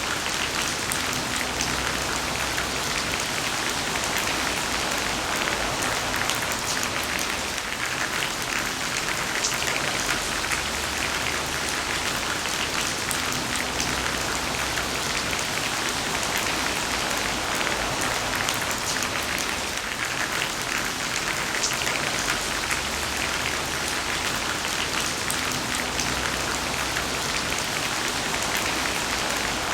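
Heavy rain falling steadily: a dense, even hiss of rain with many small, sharp drop hits.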